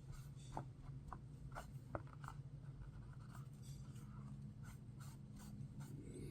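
Faint, irregular light clicks and scratches of small objects being handled, over a steady low hum.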